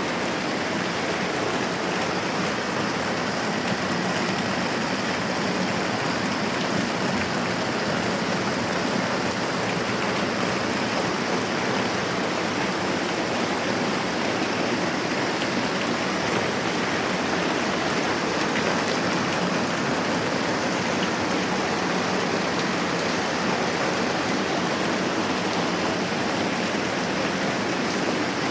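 Steady moderate rainfall, an even, unbroken hiss that holds at one level throughout.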